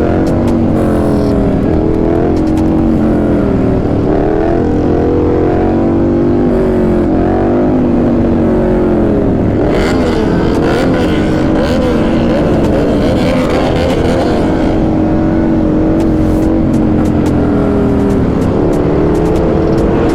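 Motorcycle engine running under way, its pitch rising and falling with the throttle, over steady road and wind noise.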